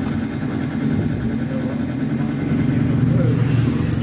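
A motorcycle engine idling steadily, swelling slightly about three seconds in, with a short clatter near the end.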